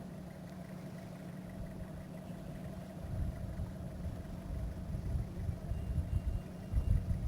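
Vehicle engine idling with a steady low hum. Uneven low rumbling comes and goes from about three seconds in.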